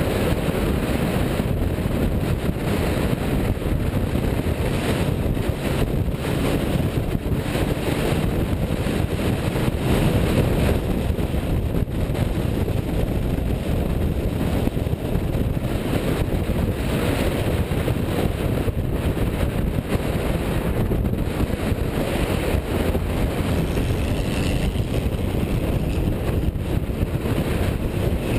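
A car driving at a steady pace, its engine and road noise mixed with wind buffeting the microphone, with no rise or fall.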